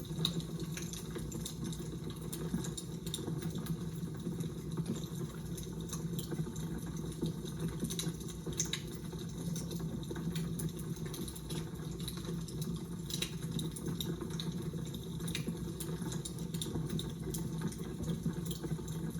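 Fire crackling: irregular small snaps and pops over a steady low noise.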